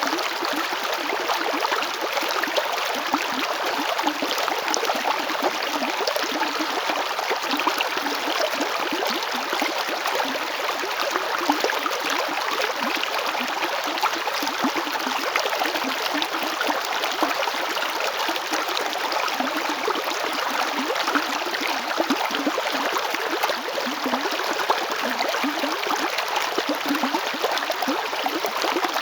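River water flowing over rocks: a steady rushing with small gurgles and splashes.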